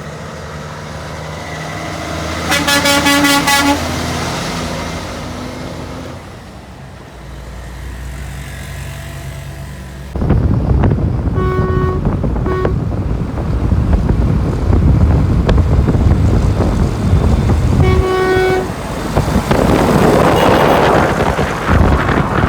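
Trucks on a highway sounding their horns: a long horn blast about three seconds in, two short toots around twelve seconds and another near eighteen seconds, over engine and road noise that becomes much louder suddenly about ten seconds in.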